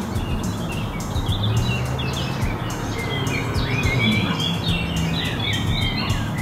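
Several small birds chirping and singing in quick, overlapping phrases from the trees, over a low steady hum.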